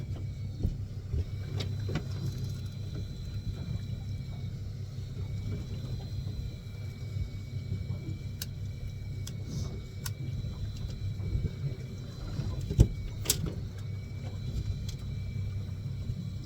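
Fishing boat's engine running with a steady low hum, a faint steady high whine over it, and scattered small knocks, with one sharp knock about 13 seconds in.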